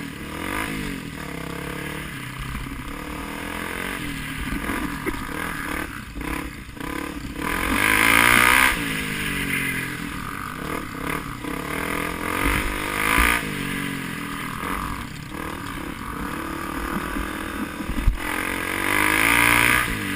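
Off-road motorcycle engine revving up and down repeatedly, with harder throttle bursts about eight seconds in, around thirteen seconds and near the end.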